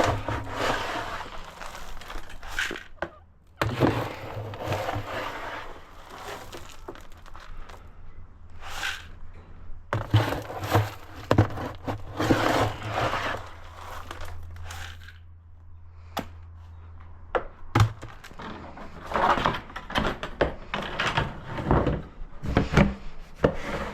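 Animal feed being gathered up by hand for young farm animals: irregular rustling and scraping with scattered sharp knocks and clatter, loudest in short bursts.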